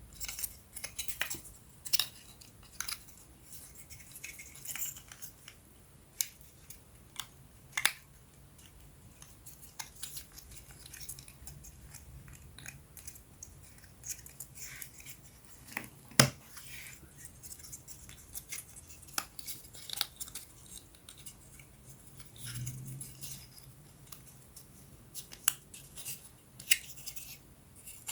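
Small wooden puzzle pieces being handled and fitted together: scattered light clicks and taps with faint rubbing, and one sharper knock about sixteen seconds in.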